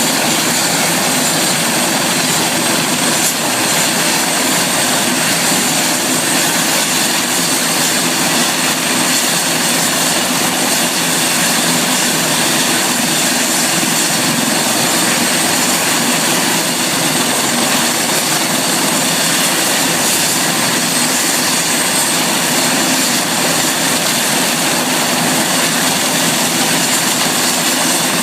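Helicopter running steadily: a loud, even rush of engine and rotor noise with a thin, high steady whine on top.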